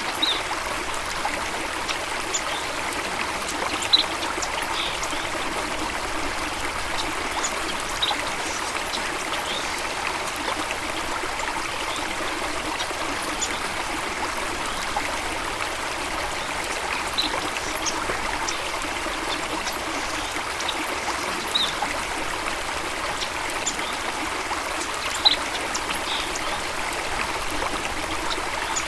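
Stream water flowing and trickling steadily, with scattered short, high ticks from splashes or chirps.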